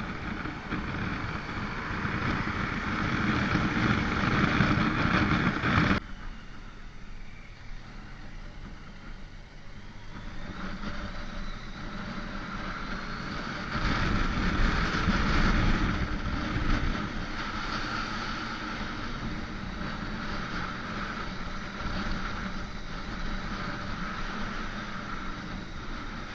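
Motorcycle engine and wind noise while riding. The engine pulls and gets louder for the first several seconds, drops sharply about six seconds in, then runs at a steady cruise with a louder stretch past the middle.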